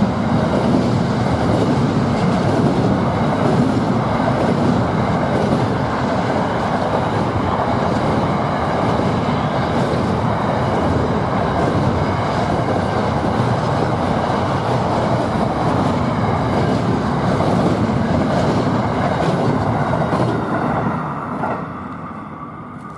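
A train passing, its wheels rolling over the rails in a steady, loud rumble that fades away over the last couple of seconds.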